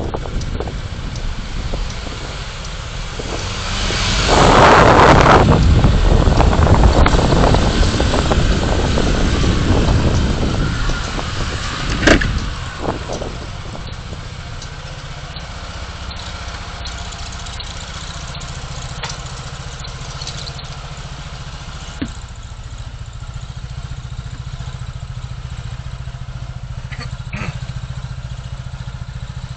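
Car engine and road noise while driving. A louder rush of noise swells from about four seconds in and fades by ten, a sharp knock comes about twelve seconds in, and then a steadier low engine hum runs on.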